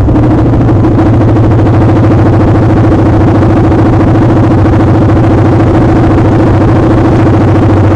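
Motorcycle engine running steadily at an even pitch, loud and unchanging.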